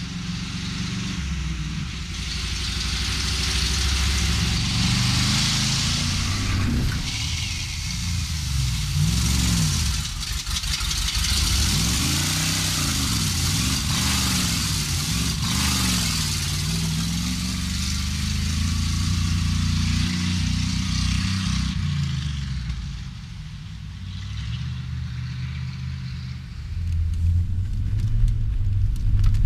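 Car engine revving, its pitch climbing and falling several times, then running at a steadier pitch, under constant road and wind noise, heard from inside the cabin.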